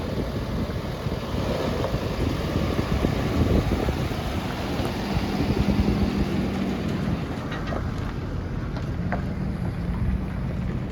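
Wind buffeting the microphone over the steady hum of a Ford F-550 truck's engine idling.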